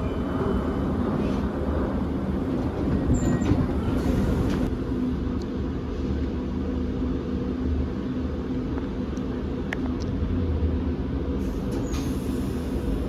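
Siemens electric suburban train at the platform, a steady low hum from its traction and auxiliary equipment, with a short hiss about four seconds in and a few light clicks.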